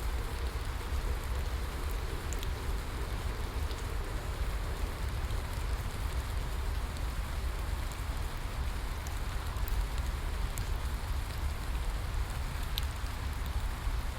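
Steady rainfall with scattered drops ticking sharply, over a deep continuous low rumble.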